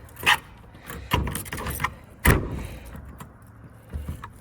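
A garage door and its lock being worked: a handful of sharp metal clanks and knocks, the loudest a little over two seconds in, as the lock is latched.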